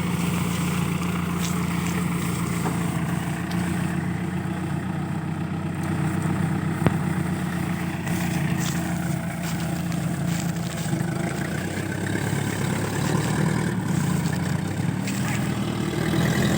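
Engine of a truck loaded with over four tons of sugarcane running steadily, a low even drone that holds throughout; a single sharp click about seven seconds in.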